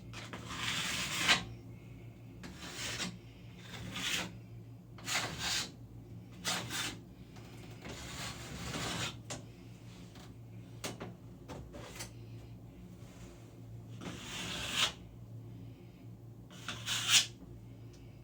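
Plastic key card scraping and spreading Dry Dex spackle across a drywall ceiling patch: a series of about a dozen short rasping strokes, some quick, some drawn out over a second or so. A low steady hum runs underneath.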